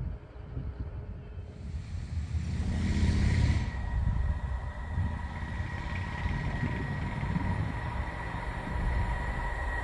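A distant approaching freight train: a steady high-pitched hum sets in about four seconds in and holds. Under it, wind rumbles on the microphone, with a louder gust about three seconds in.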